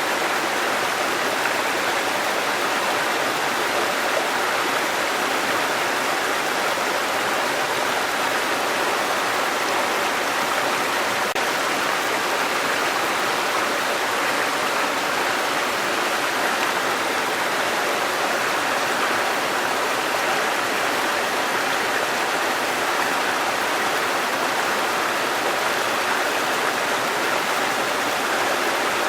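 Running water from a waterfall or stream, a steady, unbroken rushing with no separate splashes.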